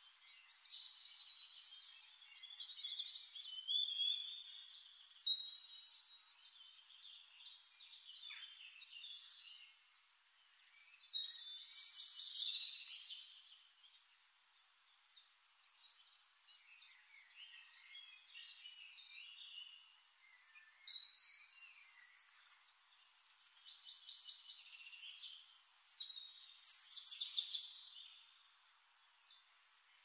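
Birds chirping and singing, high and thin, with louder bursts of song every several seconds.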